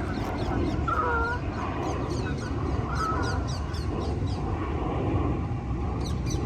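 Geese honking, two calls about a second and three seconds in, over many quick high chirps from small birds. A steady low rumble runs underneath.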